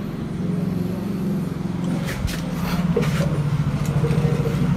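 Car engine idling steadily, with a few light knocks about two seconds in.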